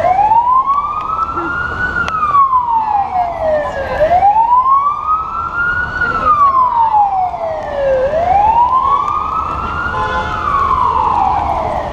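Emergency vehicle siren in a slow wail: its pitch rises and falls about every four seconds, three times over, above a low steady rumble.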